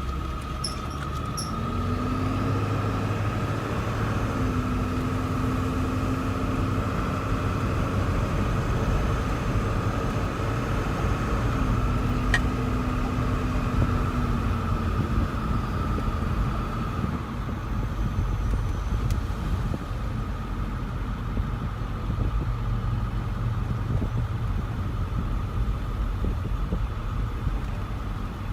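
John Deere tractor engine running steadily as the tractor works the field, with a steady high whine over the engine note and a lower tone that rises in for a few seconds now and then.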